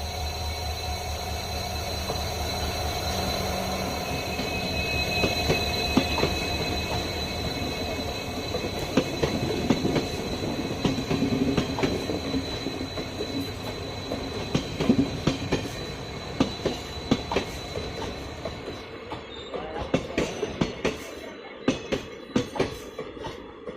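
Diesel-hauled passenger train going past: at first a low, steady diesel engine hum, then the wheels clicking over the rail joints with a steady high-pitched wheel squeal. Toward the end the clicks stand out more sharply and come further apart as the hum and squeal fade.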